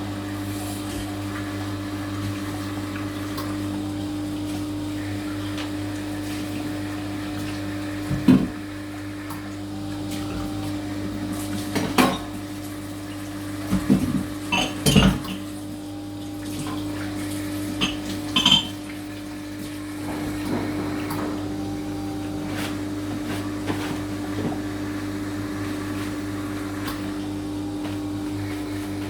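Carimali bean-to-cup coffee machine running its cleaning cycle, its pump humming steadily. Sharp clinks and clatters come a few times, about a third of the way in, around the middle and a little after.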